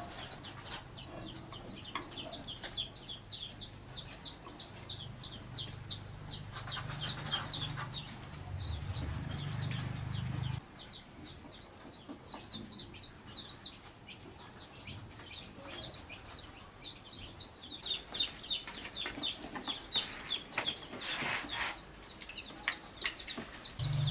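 Chickens in a farmyard: rapid runs of short, high peeps, about four or five a second, go on almost without pause, with occasional clucks. A low steady hum under them cuts off suddenly about ten seconds in.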